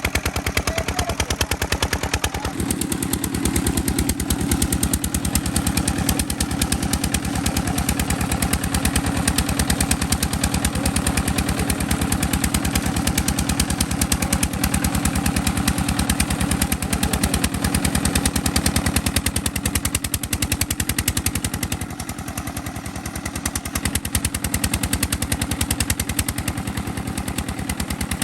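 Single-cylinder Petter-type diesel engine running steadily and directly driving a tubewell pump, its exhaust a fast, even run of sharp beats. The beats grow heavier a couple of seconds in and ease slightly for a moment about three-quarters of the way through.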